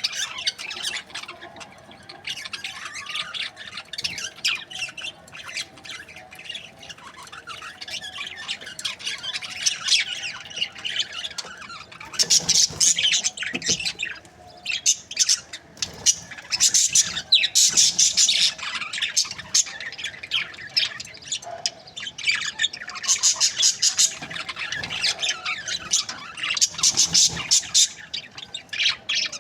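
Several budgerigars chattering, with a dense run of rapid high chirps and squawks that grows louder in spells during the second half.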